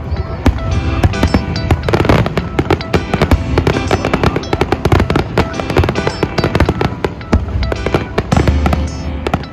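Fireworks going off in rapid succession, many sharp bangs and crackles a second, with music playing underneath.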